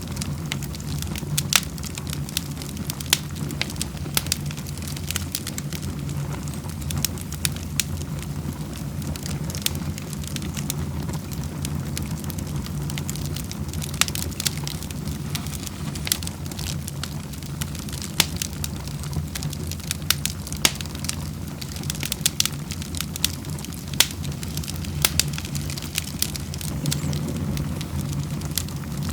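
Wood fire crackling in a fireplace, with sharp irregular crackles scattered throughout over a steady low rumble.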